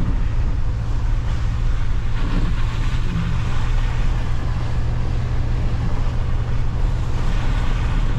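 Pickup truck driving a rough backcountry trail: a steady low engine and driveline drone with road and tyre noise.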